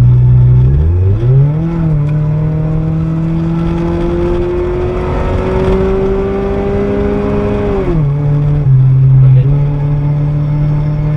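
A vehicle engine running under load: its revs climb about a second in, keep rising slowly for several seconds, then fall back suddenly at about eight seconds, as when accelerating and then lifting off or shifting.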